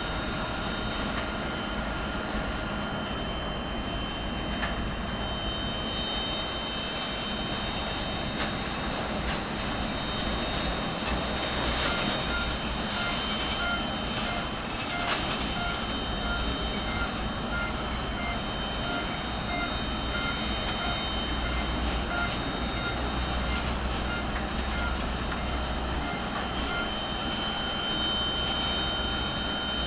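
Steady whine and rumble of jet aircraft engines on an airport apron, with several steady high tones. About twelve seconds in, a steady tone turns into a regular beeping, about one beep a second, which runs until near the end, when the steady tone returns.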